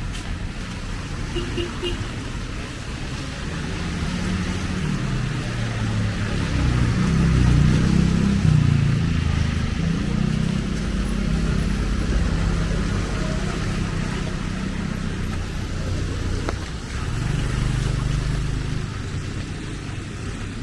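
Road traffic passing: vehicle engines running by, loudest about 7 to 9 seconds in and again near the end, over a steady hiss.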